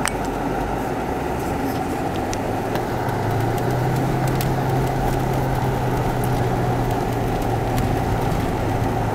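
Audi car engine running steadily under a dense low rumble, its tone strengthening and rising slightly about three seconds in, with a few faint clicks.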